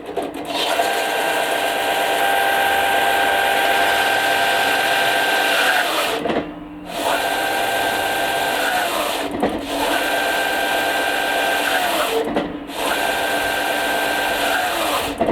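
Ryobi belt and disc sander's electric motor running with the sanding disc under heavy load. Three or four times the pitch sags and the sound briefly drops away as the motor bogs down toward a stall, then it picks back up to speed.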